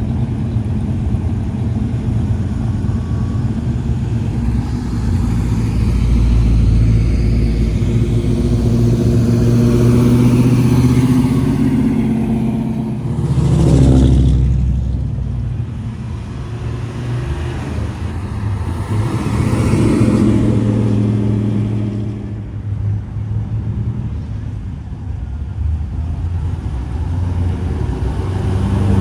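Classic cars driving past one after another with their engines running, rising and fading as each goes by; the loudest pass comes about halfway through.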